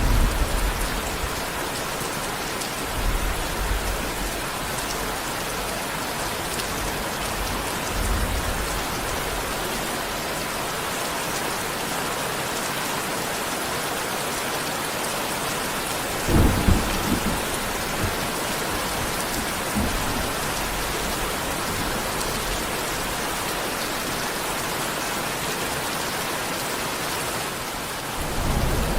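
Steady heavy rain falling on a surface, with low rolls of thunder: a brief one a few seconds in, another around 8 seconds, and the loudest rumble a little past halfway.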